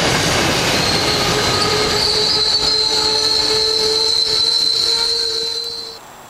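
Train passing at speed through a station, a loud rush of rail noise with a steady high-pitched squeal and a lower tone under it; the sound cuts off abruptly near the end.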